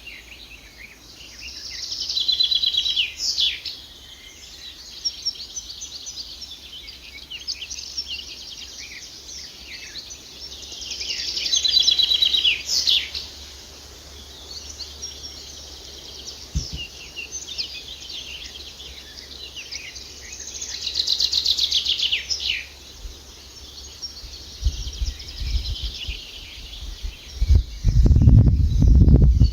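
A songbird singing three loud phrases about ten seconds apart, each a couple of seconds of fast trilled and down-slurred notes, with fainter chirps between. Near the end a loud low rumble sets in.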